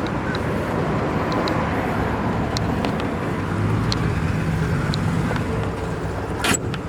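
Steady low vehicle rumble, like road traffic, with a few short high chirps and a sharp click near the end.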